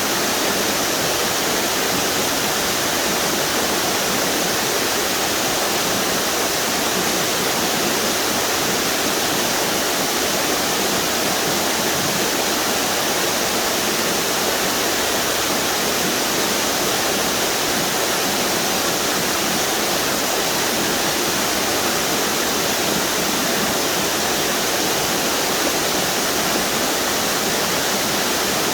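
River water pouring over a string of small waterfalls, a steady, unbroken rush.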